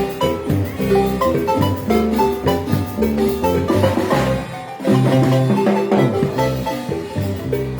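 Marimba ensemble playing an upbeat dance tune: rapid mallet-struck notes over low bass notes, with a percussion accent about four seconds in.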